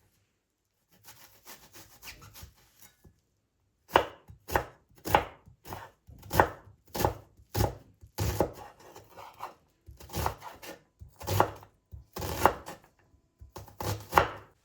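A knife chopping on a cutting board: a faint rustle, then from about four seconds in a run of irregular knocks, about one or two a second, with a brief pause partway through.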